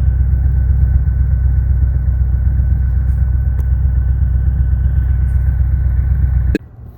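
A 1991 Volkswagen Vanagon Syncro on the move: a steady low engine and road rumble that cuts off suddenly near the end.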